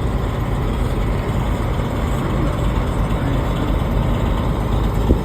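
Semi truck's diesel engine and road noise heard from inside the cab while driving, a steady low rumble.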